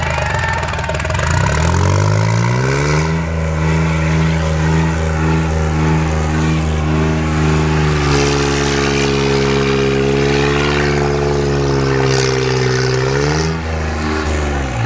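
New Holland 3630 tractor's diesel engine revving up, held at high revs for about ten seconds, then dropping back near the end.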